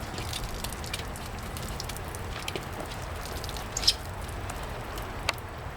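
Water splashing and dripping while a motorcycle is washed by hand, with small scattered taps and two sharper knocks, one near the middle and one near the end.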